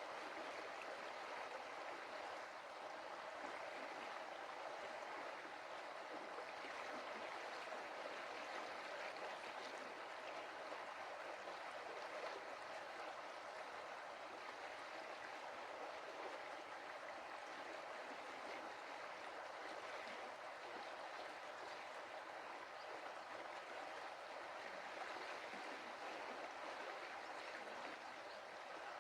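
Stream water running and splashing over stones, a steady rush without breaks.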